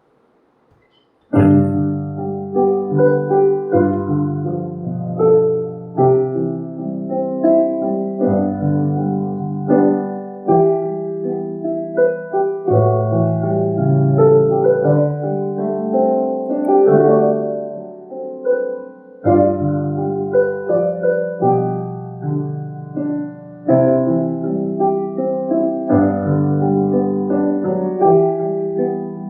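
Piano or keyboard playing a slow hymn accompaniment in full chords, with the bass changing every couple of seconds. It starts suddenly about a second and a half in.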